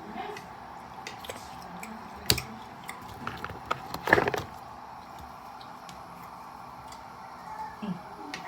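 Kitchen handling sounds: a few light knocks and clatters of utensils and cookware, a sharp one about two seconds in and a louder clatter about four seconds in, over a steady background hum.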